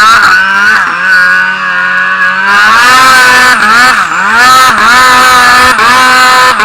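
Turbocharged Arctic Cat M1000 snowmobile's two-stroke engine running hard under load, its pitch dipping and climbing back several times as the throttle is worked, and louder from about two and a half seconds in.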